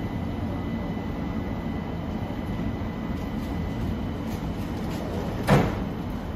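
Steady rumble of an ÖBB Railjet train standing at a station platform, with a faint high steady whine. About five and a half seconds in comes one short, loud thump.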